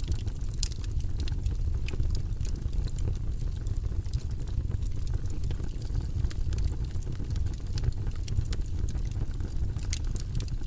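Wood fire crackling and popping in a fireplace: irregular sharp snaps over a steady low rumble of the flames.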